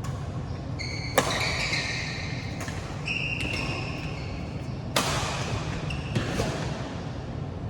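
Badminton rally: sharp cracks of rackets striking the shuttlecock about a second in, around five seconds and just after six seconds, with short high squeaks of court shoes on the floor between them.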